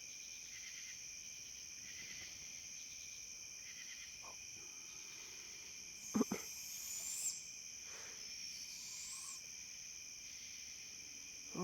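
Barred owl calls over a steady night chorus of crickets and insects: a short, loud low call about six seconds in, then a harsh, high hissing screech, and a fainter one a couple of seconds later.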